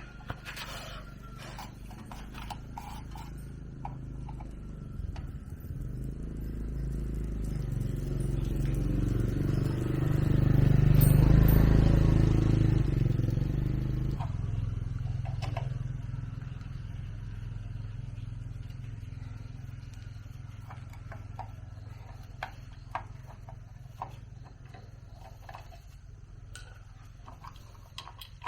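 A motor vehicle's engine rumble that swells to a peak about halfway through, drops off suddenly, then fades away, with light scattered metal clinks.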